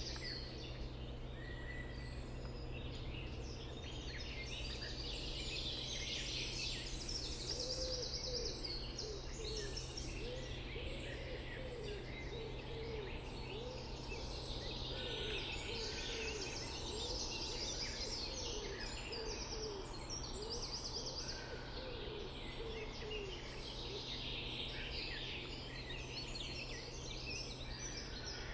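Several songbirds singing over one another in a dawn-chorus-like mix of trills and warbles. Through the middle a lower call repeats about once a second, over a steady faint low rumble.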